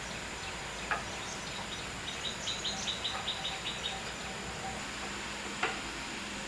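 A small bird calling a rapid run of short, high chirps, about a dozen in a row, over a steady outdoor hiss. Two short knocks come, one about a second in and one near the end.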